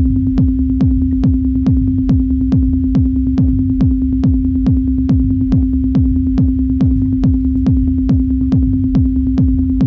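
Work-in-progress techno loop playing back loud: a four-on-the-floor kick drum at about two and a bit beats a second, each kick a quick downward pitch drop, over a low rumble bass and one steady held tone.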